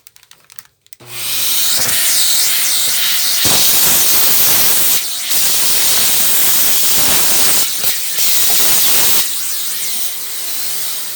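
Shark vacuum cleaner switched on about a second in and running with a loud suction rush through a flexi crevice tool. It drops off near the end as the motor begins to wind down.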